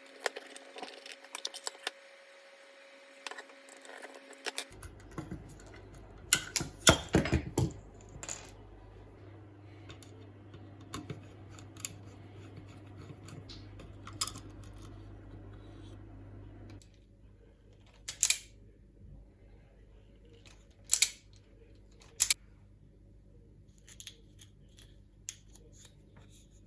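Scattered sharp clicks and snips of hand tools, wire cutters and strippers, working on power-supply cable, with a dense cluster of clicks early on and a few single sharp clicks later, over a low steady hum.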